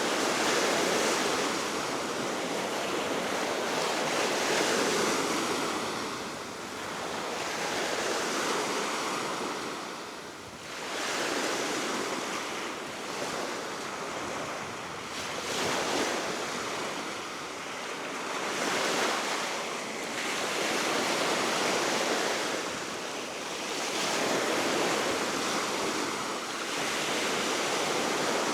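Baltic Sea waves breaking and washing ashore, swelling and fading every few seconds, with steady wind.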